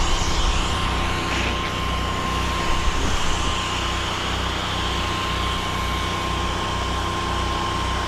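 Pressure washer engine running steadily, with a low throb pulsing about twice a second and a steady high whine.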